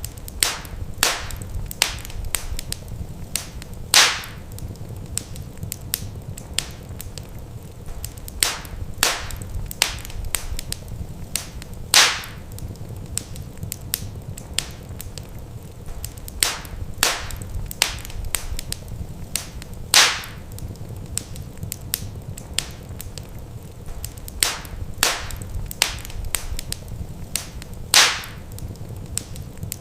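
Wood fire in a fireplace crackling, with sharp pops scattered over a steady low rumble of the flames. A louder pop comes about every eight seconds, in a repeating pattern.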